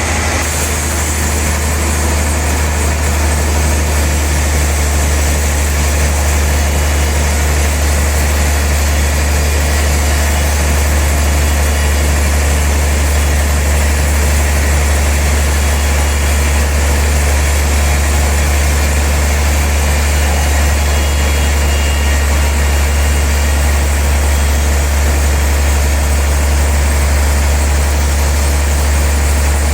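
Sawmill saw machinery running steadily, with a strong, unchanging low hum under an even whirring noise.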